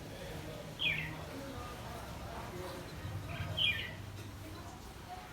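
Small bird giving a short, falling chirp twice, about three seconds apart, over a low background murmur.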